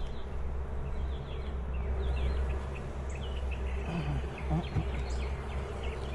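Honeybees buzzing in a steady hum around an opened hive, the colony crowded with bees, including many drones.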